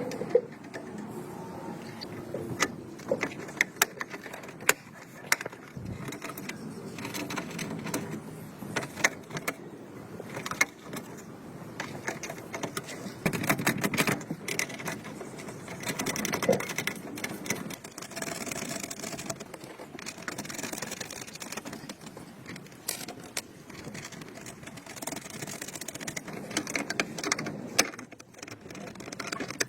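Hand work on workshop parts: irregular clicks, taps and knocks with stretches of scraping.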